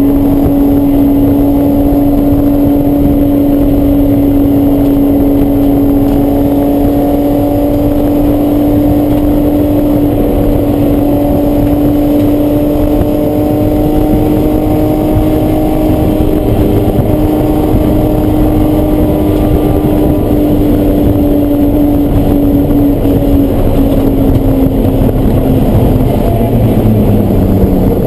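Race car engine running loud and steady under load, its pitch creeping slowly upward for most of the stretch, then falling away near the end.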